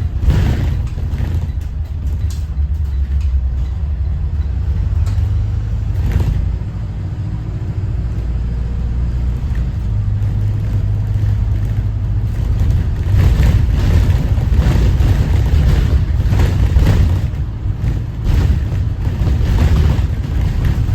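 Detroit diesel engine of a Thomas Saf-T-Liner C2 school bus running under way as a steady low drone, with knocks and rattles from the bus coming more often in the second half.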